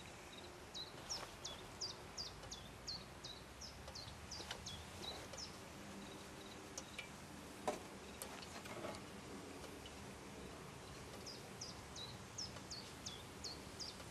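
A small songbird singing a run of repeated high, downward-sweeping notes, about two or three a second, through the first few seconds and again near the end. A single sharp click about halfway through.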